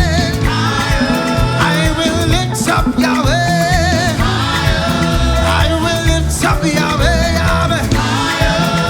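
Live worship band music with a steady driving beat and bass, and wordless vocal or instrumental melody lines over it.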